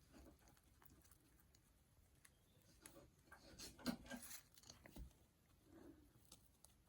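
Pet rats rummaging in and nibbling a mini herb garden: faint scattered rustles and small clicks, busiest a little past halfway.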